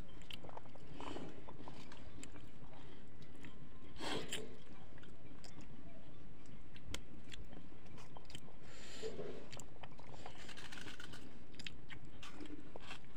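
Close-up sounds of a man eating fish and rice with his fingers: chewing and biting, with many short clicks and crunches.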